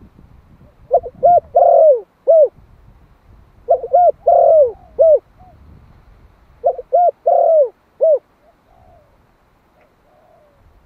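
Male spotted dove of the Malai strain cooing: three loud phrases of about four notes each, every phrase with one longer drawn-out note in the middle, followed near the end by a few faint softer notes.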